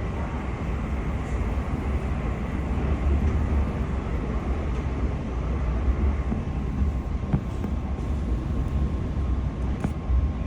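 Passenger train running on the rails: a steady rumble with a faint steady whine and a few light clicks.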